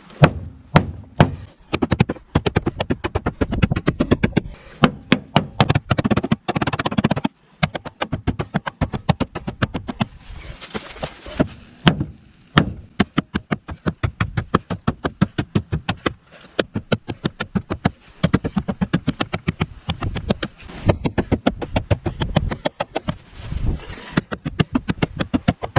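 A knife tip stabbed again and again into a VW Golf's sheet-metal roof: many quick, sharp strikes, several a second, with brief pauses.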